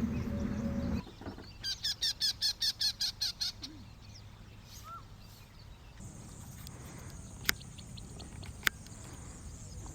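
A wild bird calling a quick run of about ten high repeated notes, roughly five a second. It follows a brief steady low hum that cuts off about a second in. Later a steady high hiss, like insects in the field, carries two sharp clicks.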